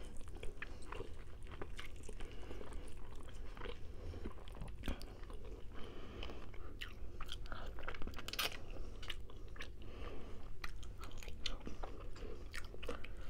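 Close-up eating of rotisserie chicken: chewing with many irregular wet clicks and small crunches, and fingers tearing the meat. A louder crackle comes a little after the middle.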